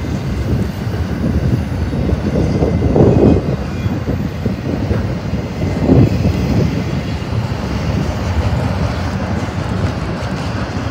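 Intermodal freight train's flatcars, loaded with truck trailers, rolling past at close range: a steady rumble of steel wheels on the rail, with two louder swells about three and six seconds in.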